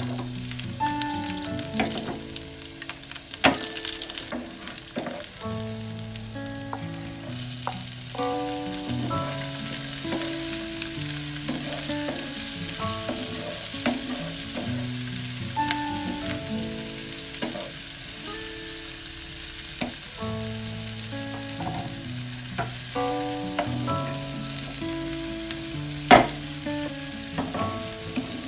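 Shallots, chilies and garlic sizzling in hot oil in a non-stick frying pan while a wooden spatula stirs them. The sizzle grows louder about seven seconds in, and there is a sharp knock near the end. A soft melody plays underneath.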